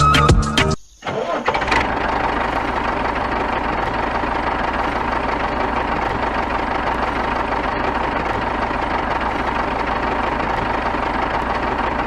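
A motor running steadily at an even speed after background music cuts off about a second in.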